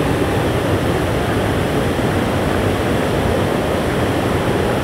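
Waterfall: falling water making a loud, steady rushing noise with no change.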